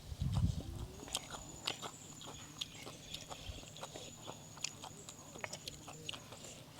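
Close-miked chewing and biting of stir-fried instant noodles, with many short wet clicks and smacks from the mouth and a low thud right at the start. A faint high, steady tone sounds through most of it.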